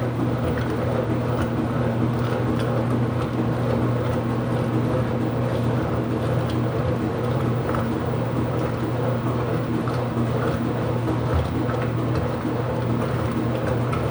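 IPSO commercial washing machine running mid-cycle: a steady low mechanical hum with an even wash of noise over it.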